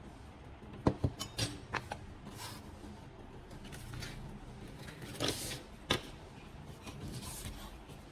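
Objects being handled by hand: a quick run of sharp clicks and knocks about a second in, then a short scraping rustle and one more knock about five to six seconds in.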